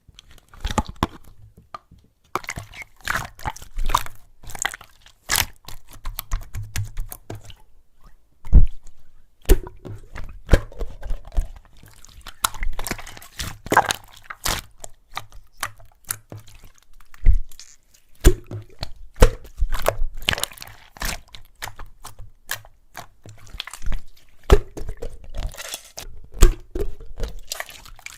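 Hands squeezing, stretching and pressing slime, giving a run of irregular sticky crackles, pops and squelches with a few short pauses.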